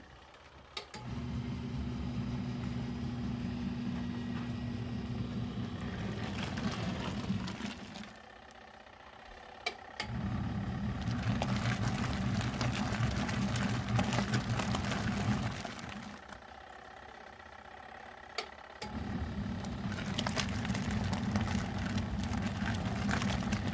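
Portable washing machine's wash motor running a load of clothes in soapy water, turning on and off in stretches of about six seconds with pauses of two to three seconds between, the usual alternating agitation of a wash cycle.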